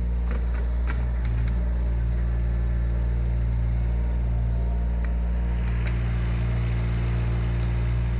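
Yanmar ViO17 mini excavator's small three-cylinder diesel engine running at a steady speed, with a few faint clicks over the drone.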